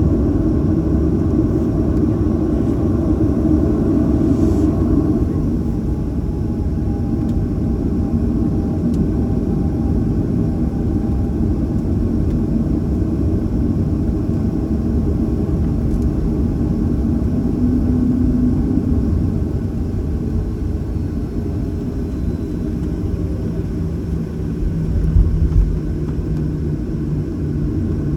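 Cabin noise inside a Boeing 737-800 on the ground: the steady low rumble of its CFM56-7B engines at idle, with a couple of low thumps near the end.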